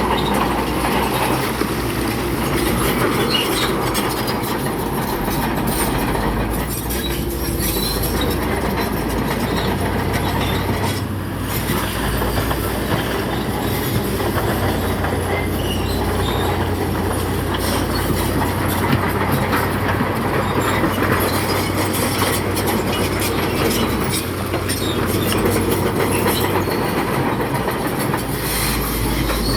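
Crawler bulldozer at work pushing rock: the diesel engine runs steadily under load while the steel tracks clank and squeal.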